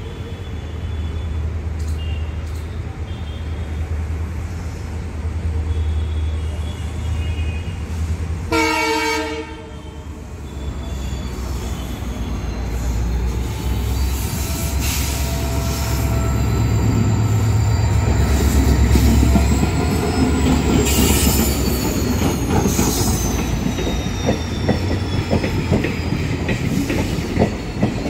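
Diesel locomotive-hauled passenger train approaching and passing, its engine a steady low rumble. A horn blast of about one second comes about eight seconds in. From mid-way the sound grows louder, with wheels squealing in high gliding tones on the curve and the clatter of wheels over rail joints as the coaches go by.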